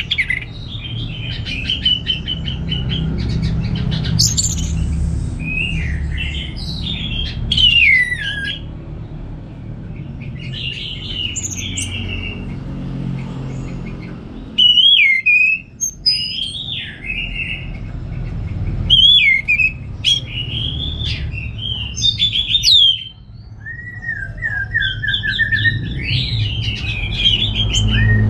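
Orange-headed thrush singing a rich, varied song of short whistled phrases with rising and falling notes, almost without pause, ending in a repeated run of falling notes. A steady low hum runs underneath.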